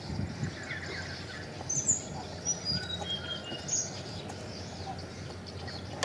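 A bird calling, with a few chirps and then a run of short high notes that step down in pitch, over low knocks and rustling from a cardboard box being handled.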